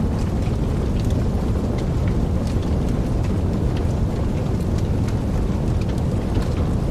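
Wood fire burning in a fireplace: a steady low rumble of flames with scattered small crackles and pops throughout.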